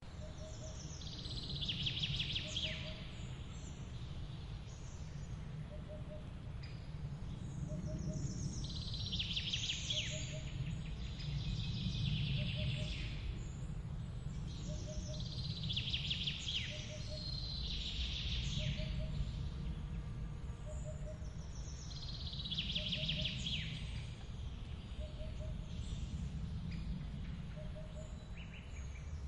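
Forest ambience: running water from a waterfall makes a steady low rush. Over it a songbird sings a loud, high phrase every few seconds, five or six times, and a soft, short lower call repeats about once a second.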